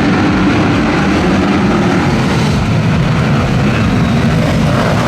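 Motocross motorcycle engines running on the track, their pitch wavering up and down as the riders work the throttle.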